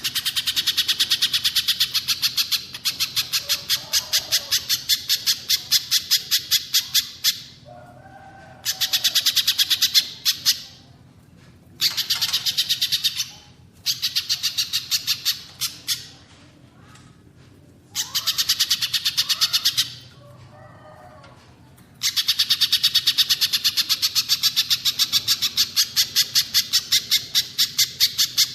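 Small songbird singing phrases of rapid, evenly repeated high, sharp notes. Each phrase lasts a few seconds, with short pauses between, and the last one runs on near the end.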